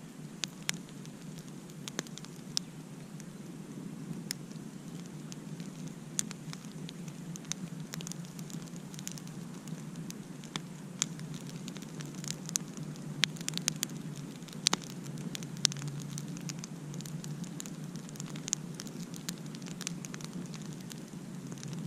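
Campfire crackling: irregular sharp pops and snaps of burning wood over a steady low rush of the flames, with a few louder pops past the middle.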